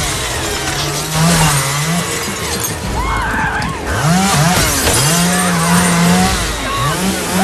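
Chainsaw engine revving over and over, its pitch rising and falling in quick arcs as the throttle is blipped.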